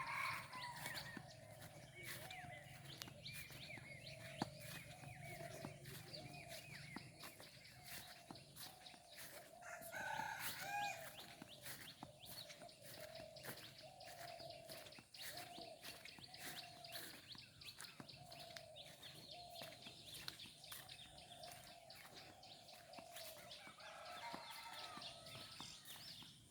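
Faint morning birdsong: many birds calling on all sides, with short calls repeating about every second and one louder call about ten seconds in.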